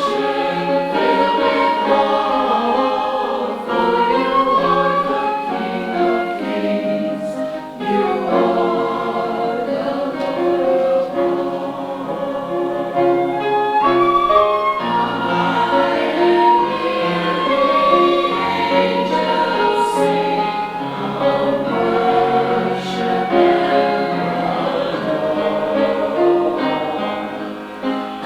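Choir singing sustained, several-part harmony, with no breaks.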